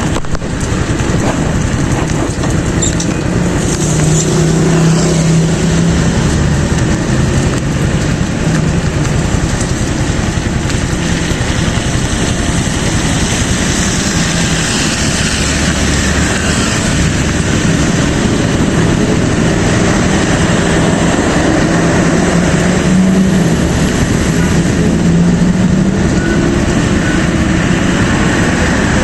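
Motorcycle on the move in the rain: steady, loud wind and road noise over the microphone, with the engine's low drone wavering in pitch as the throttle changes.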